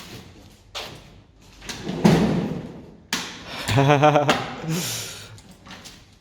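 Loud thuds and scraping, like a heavy door or debris being shoved, with a brief voice-like call about four seconds in.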